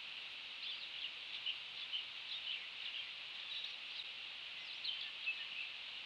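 A small bird chirping in quick, irregular high notes, a run of short chirps and brief whistles that begins about half a second in and stops near the end, over a steady high hiss.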